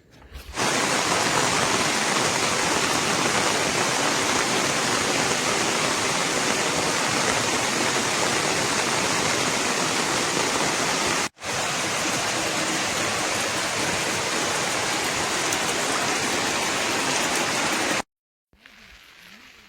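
Loud, steady rush of falling water with no rhythm or tone in it. It breaks off for an instant about 11 seconds in and stops abruptly near 18 seconds.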